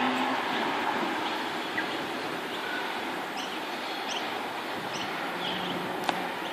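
An eight-car Oscar (H set) electric train fades away down the line just after passing, leaving a steady, gradually easing rush. Small birds chirp in short, falling notes, and a single sharp click comes near the end.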